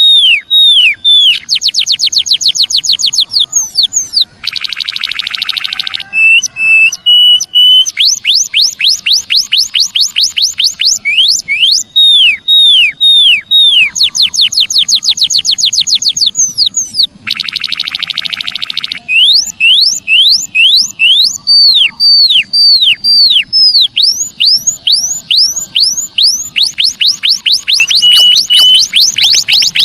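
Recorded calls of the emprit kaji (white-headed munia): fast runs of sharp, high, downslurred whistles, some several per second and some in quicker trills. The runs are broken twice by a harsh buzzy rattle lasting about a second and a half, and by a few short level whistles.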